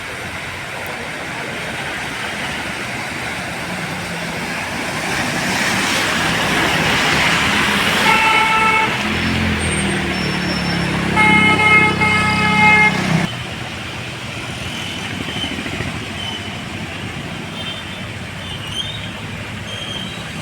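Road traffic with a vehicle coming up close, its running noise swelling midway. A horn gives a short toot about eight seconds in, then a longer, louder blast from about eleven to thirteen seconds, after which the traffic noise drops back to a steady hum.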